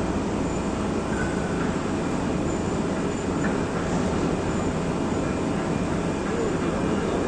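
Steady, even rumble and hiss with a faint low hum underneath, with no distinct knocks or changes.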